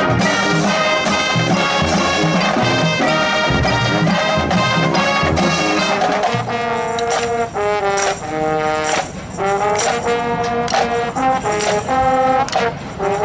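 High school marching band playing, brass-led with percussion: a busy full-band passage with heavy low drum hits, then, about halfway through, sustained brass chords punctuated by sharp percussion strikes.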